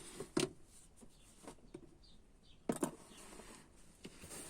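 A sharp knock about half a second in and a quick double knock near three seconds, with faint clicks and rustling between: hands and tools working at the opened fuel pump access under the BMW E39's rear seat.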